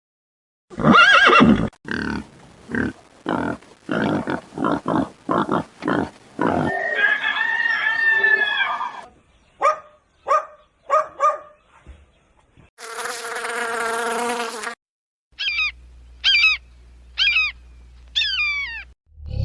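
A run of different animal calls, one after another, with abrupt cuts between them. A call about a second in is followed by a quick series of short pulses, a longer pitched call, brief chirps, a rasping call, and four short falling chirps near the end.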